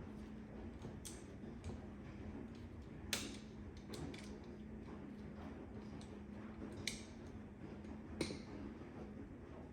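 Scattered sharp clicks and taps of a screwdriver and metal parts while an electrical wall outlet is being unscrewed and swapped by hand, over a steady low hum.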